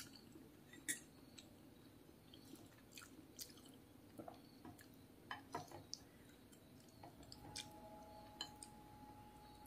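Faint chewing of soft siomay dumplings, with scattered light clicks of a metal spoon and fork against a plate. A faint steady hum comes in about three-quarters of the way through.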